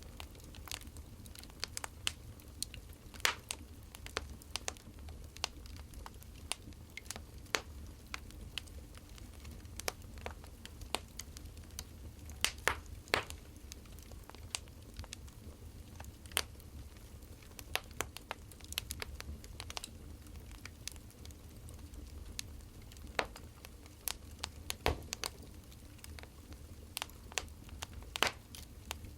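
Wood fire crackling, with irregular sharp snaps over a low steady rumble; a few louder snaps stand out, around three seconds in, near the middle, and near the end.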